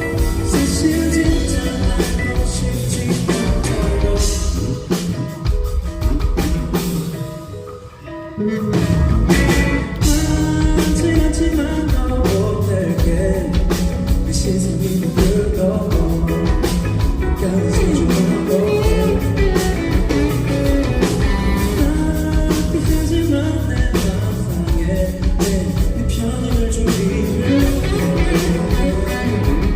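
Live band playing a pop-rock song with a singer's vocal over guitar and drums. About eight seconds in, the music thins out and drops briefly, then the full band comes back in.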